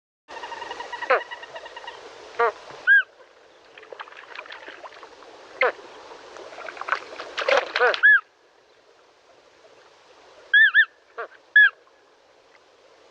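A flock of flamingos calling: many overlapping calls for about eight seconds, then quieter, with a few separate loud calls, some in quick pairs.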